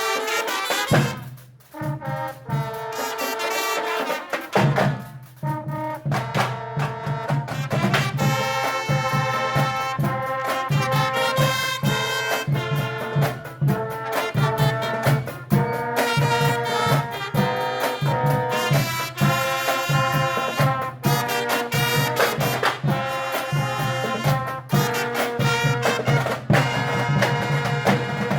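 Marching band playing: brass over drums with a steady beat. It starts sparse and the full band comes in about five seconds in.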